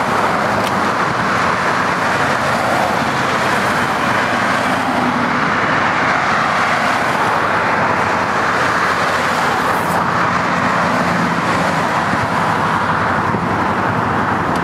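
Steady, loud noise from a passenger train, with a faint low hum underneath.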